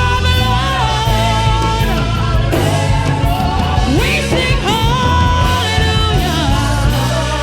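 A worship band playing with full bass and drums under sung vocals.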